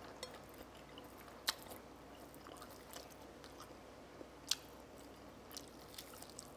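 A person chewing food quietly, with scattered small mouth ticks and two sharper clicks about one and a half and four and a half seconds in.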